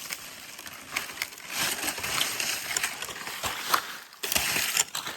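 Dry leaf litter and debris rustling and crackling as it is searched through by hand, with scattered sharp snaps and clicks.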